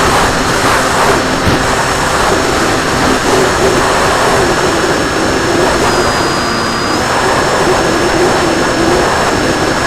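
RC plane in flight: the propeller and motor running steadily under a loud rush of wind noise, with a thin high whine that dips slightly in pitch for about a second, around six seconds in.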